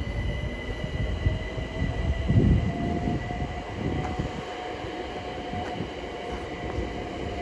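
London Overground Class 378 electric multiple unit pulling away, its traction motor whine rising slowly in pitch over the first few seconds and then holding steady, over the rumble of the wheels on the track.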